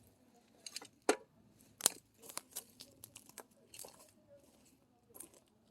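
Scattered light crunches and clicks, with a sharper knock about a second in and the loudest about two seconds in.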